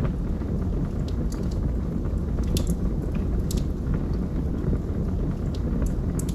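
Log fire crackling: irregular sharp pops and snaps over a steady low rumble of burning wood.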